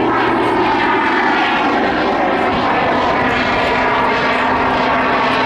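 Pitts aerobatic biplane in flight, its propeller engine running at steady power with a loud drone that shifts slightly in pitch.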